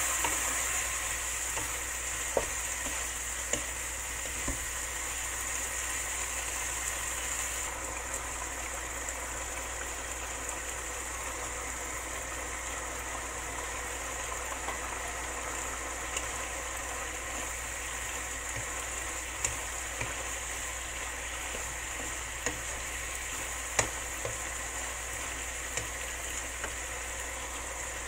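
Eggplant sizzling steadily as it stir-fries in a frying pan on a gas burner. Now and then a wooden spatula knocks against the pan, sharpest near the end.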